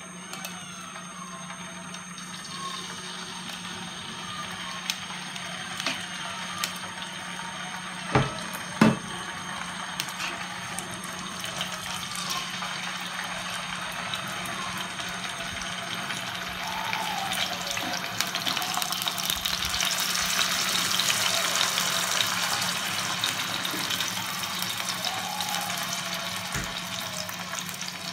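Chicken pieces frying in olive oil in a paella pan, a steady sizzle that grows louder as the pan heats up. Two sharp knocks come about eight and nine seconds in.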